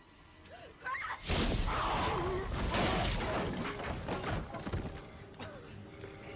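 A loud crash with shattering and clattering that breaks in suddenly a little over a second in and dies away over the next few seconds, from a film's sound track.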